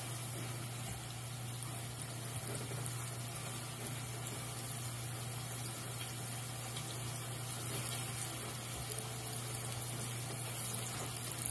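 Battered pike pieces frying in a pan of hot oil: a steady sizzle.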